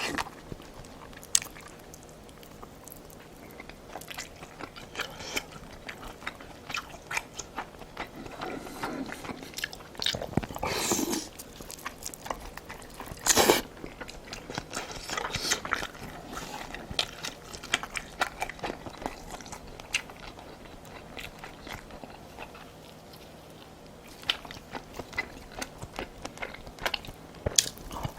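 Close-miked chewing and biting of spicy braised monkfish (agujjim), with many small wet mouth clicks and crunches. There are two louder bursts of noise, about ten and thirteen seconds in.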